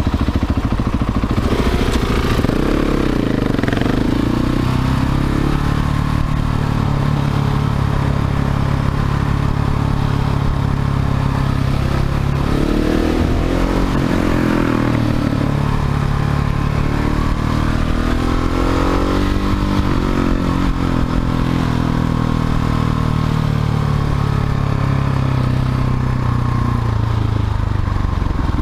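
Husqvarna 701 Supermoto's single-cylinder engine with a Leo Vince slip-on exhaust, riding: it rises in pitch as it accelerates three times (about two, twelve and eighteen seconds in), running steadily in between.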